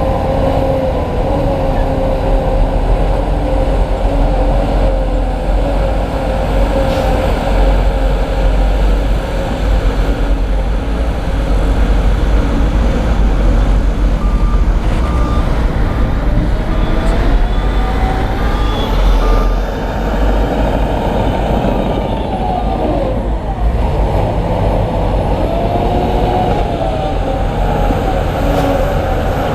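Heavy diesel earthmoving machinery running under load, the engine note rising and falling. A reversing alarm beeps steadily, about once a second, for several seconds through the middle.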